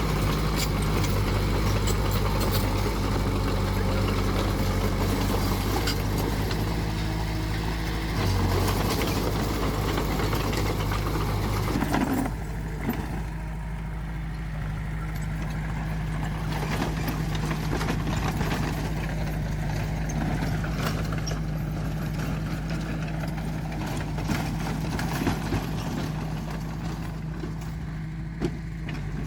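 Diesel engine of heavy earthmoving machinery running steadily. About twelve seconds in there is a short knock, after which the busier, noisier part of the sound falls away and a steadier low engine drone remains.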